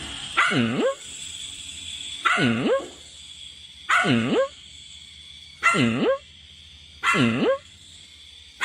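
Small puppy barking: six short barks about a second and a half apart, each dipping and then rising in pitch.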